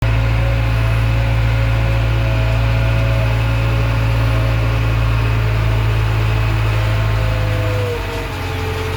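JCB backhoe loader's diesel engine running steadily with a deep hum. The hum changes and drops a little about eight seconds in.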